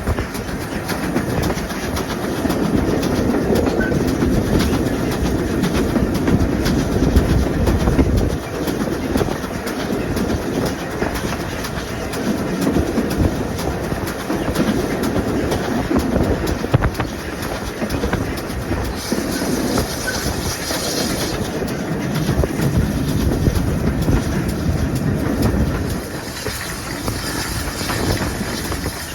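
A train running along the line, its wheels clattering over the rail joints with a steady rumble, and a brief higher hiss about two-thirds of the way through.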